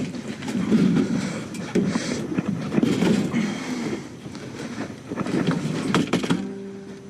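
A heavy metal appliance being dragged and shoved into a minivan: uneven scraping and rumbling, with a few sharp knocks about six seconds in.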